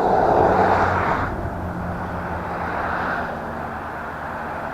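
Vehicle noise: a rushing sound, loudest in the first second and then easing to a steadier, quieter rumble with a faint low hum.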